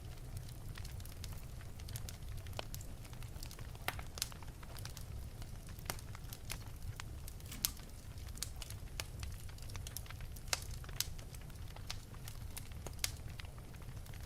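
Wood fire crackling in an open fireplace: irregular sharp pops and snaps over a low steady rumble of the flames, with a few louder pops.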